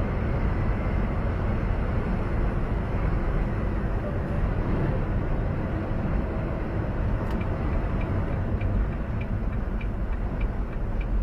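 Steady engine and road noise inside a moving semi-truck's cab. About seven seconds in, a regular light ticking starts, about two and a half ticks a second.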